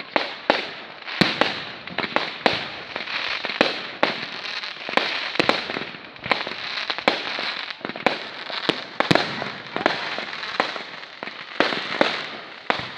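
A fireworks display: an irregular run of sharp bangs from bursting shells, about two a second, with crackling between them.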